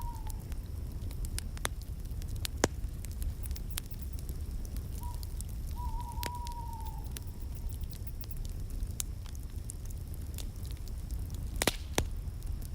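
Wood fire in a fireplace crackling and popping over a low steady rumble, with a sharp pop about two and a half seconds in and a loud crack near the end. A faint wavering whistle sounds briefly in the middle.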